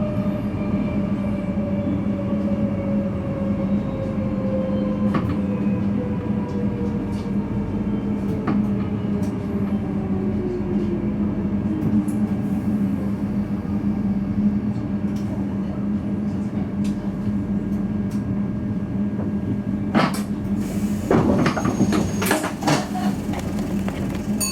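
VIRM double-deck electric intercity train heard from the driver's cab, its traction motors whining down steadily in pitch over about a dozen seconds as it slows, over a constant low hum. Near the end, a cluster of sharp clicks and knocks.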